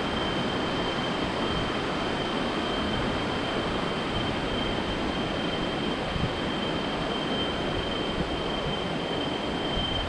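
Steady rush of water from a waterfall, an even roar that holds at one level, with a thin steady high-pitched tone running above it.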